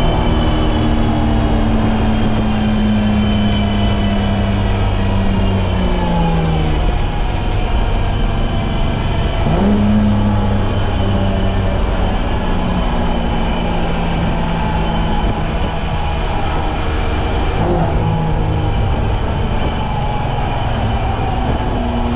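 BMW M20B25 2.5-litre inline-six engine of an E30 running hard at steady revs, its pitch dropping about six seconds in, climbing quickly again around ten seconds in, and dipping briefly near eighteen seconds.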